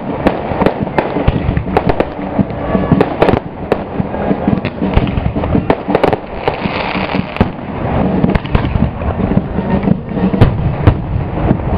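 Firecrackers going off in quick, irregular succession: many sharp cracks and pops over a continuous rumble.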